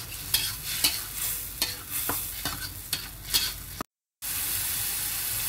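Blended chili paste sizzling in hot oil in a wok, with a metal slotted spatula scraping and clacking against the pan in quick, irregular strokes. The strokes stop a little before four seconds in, there is a brief gap, and then only the steady sizzle remains.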